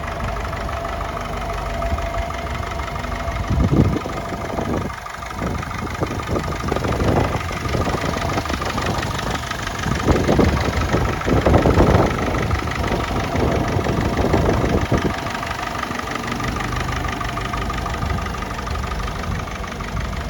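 Ferguson TE20 tractor engine running at a steady idle, with several louder surges in the middle as it picks up, then settling back to idle.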